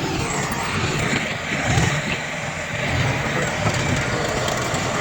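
Heavy diesel earthmoving machinery running steadily, a low engine rumble with no single event standing out.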